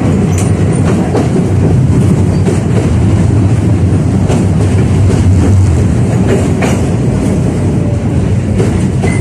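A 71-605A (KTM-5A) tram running along the track, heard from inside the car: a steady low rumble with a few irregular clicks and knocks from the wheels and rails.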